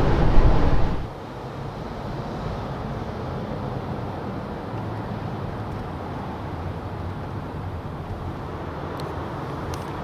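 Steady road and wind noise inside the cabin of a 2021 Mercedes-Benz S580 driving at speed: a heavy low rumble drops off suddenly about a second in, leaving a quieter, even hum.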